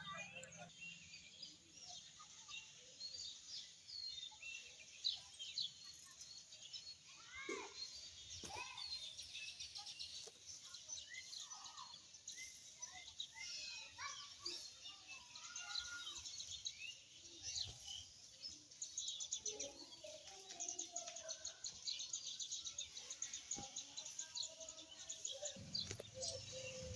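Many small birds chirping, with short calls overlapping throughout and a few lower, falling calls among them.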